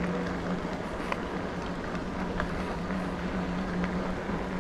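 Electric bike's motor humming steadily under wind and tyre rumble while riding, with a few faint ticks.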